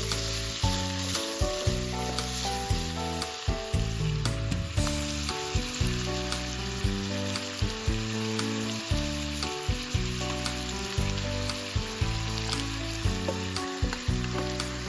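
Food sizzling and frying in a hot pan over the fire, an even hiss broken by frequent small crackling pops, with background music playing underneath.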